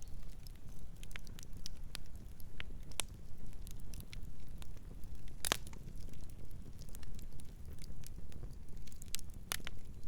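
Campfire burning: a steady low rumble of flames with irregular sharp crackles and pops, two louder pops about five and a half and nine and a half seconds in.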